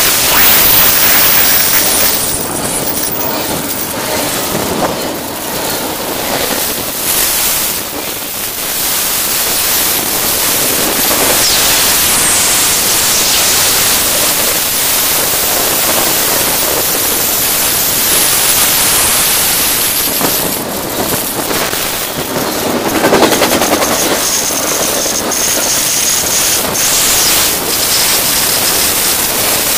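Loud, steady rush of noise with rapid rattling and knocking, from a bicycle riding a rough gravel road right beside a passing double-stack container freight train. It swells briefly about two thirds of the way through.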